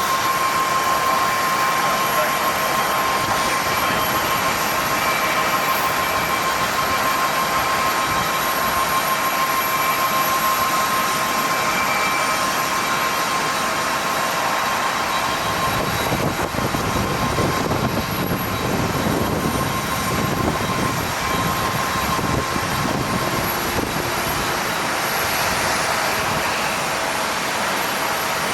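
Jet airliner engines: a steady high whine over a broad roar, with a deeper rumble building up about halfway through.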